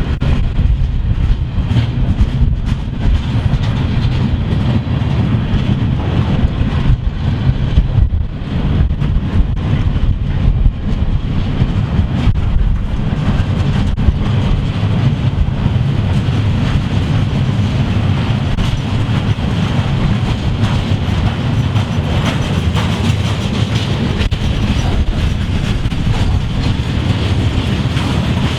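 A train rolling past on the rails: a steady heavy rumble of wheels on track, with rapid clicks of the wheels crossing rail joints.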